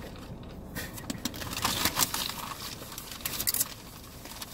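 Crunching of crispy food being bitten and chewed close to the microphone: short crackly crunches, a cluster between about one and two seconds in and another a little after three seconds.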